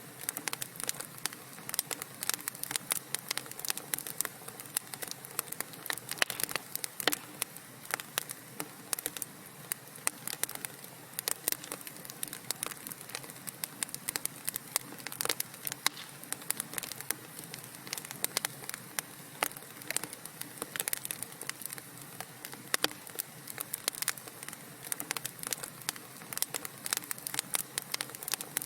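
Wood fire crackling, with many quick, irregular sharp pops and snaps over a soft steady hiss.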